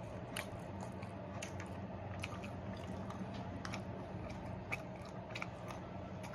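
A person chewing crunchy fried sesame chicken close to the microphone, with irregular crackles and mouth clicks, over a steady low hum.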